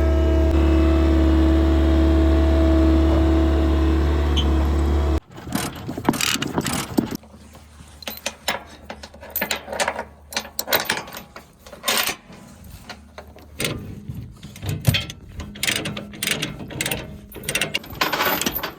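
An engine runs steadily and stops abruptly about five seconds in. Then comes a run of irregular ratcheting clicks and metallic clatter from a ratchet tie-down strap being cranked tight.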